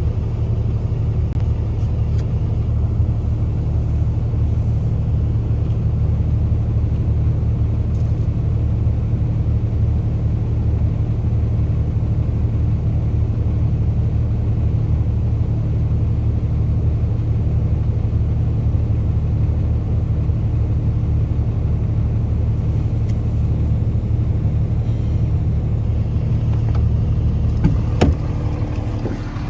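A vehicle engine running steadily with a low rumble, with a single knock near the end.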